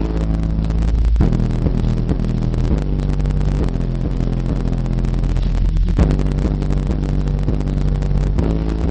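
Two Hifonics HF12D4 12-inch subwoofers in sealed enclosures playing bass-heavy music loud. Deep, sustained bass notes change every second or so.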